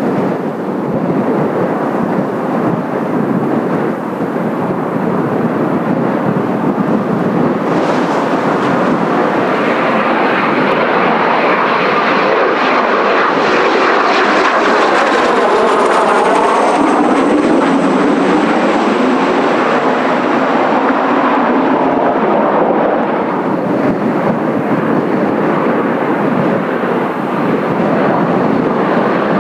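Kawasaki T-4 jet trainers' turbofan engines on landing approach. The jet noise swells as they come in, is loudest in the middle, and has a thin high whine that falls in pitch as they pass.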